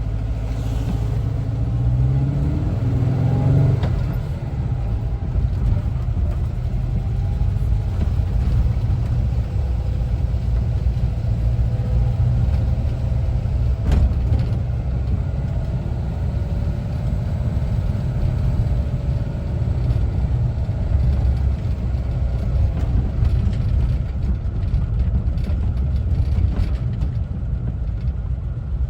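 1974 Volkswagen Westfalia camper's air-cooled engine driving on the road. It climbs in pitch as the bus accelerates over the first few seconds, then runs steadily, with a single sharp click about halfway through.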